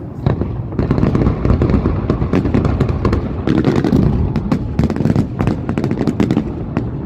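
Fireworks display: many sharp bangs and crackles in rapid succession over a continuous low rumble of bursting shells.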